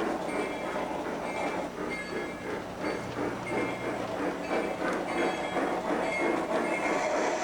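Model train running along the layout's track, its wheels clicking in a steady rhythm over the rail joints.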